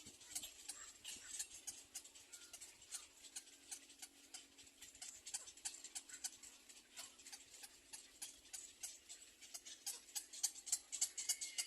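Rapid, irregular clicking, several sharp clicks a second, growing louder near the end.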